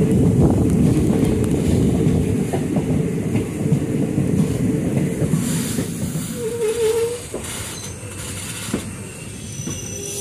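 Passenger train coaches running on the track, heard from the open doorway: loud low running noise of wheels on rail for the first six seconds or so, then quieter, with a brief wheel squeal about six and a half seconds in as the train takes a curve.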